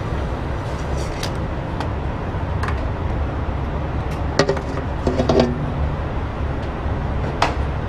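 Steady low rumble of an idling diesel semi-truck engine, with a handful of sharp metallic clicks and clanks from handling at the truck. Near the middle comes a brief clinking cluster with a short ringing tone.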